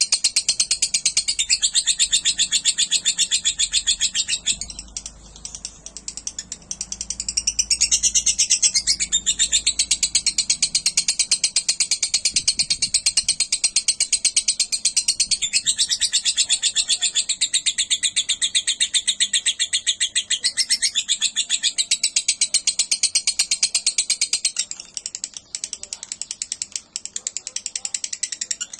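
Lovebird singing a long, high-pitched chattering trill of very rapid repeated notes: the drawn-out 'ngekek' that lovebird keepers prize for its length. The run breaks off briefly a few seconds in and again near the end.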